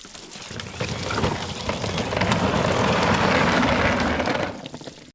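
Child's ride-on toy tractor driving, a steady noisy rumble of its wheels and drive that builds over the first second, holds, then fades and cuts off near the end.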